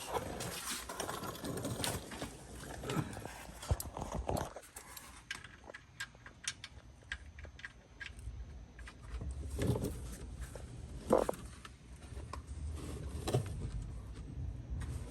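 Scattered light clicks, taps and knocks, with two louder knocks about ten and eleven seconds in.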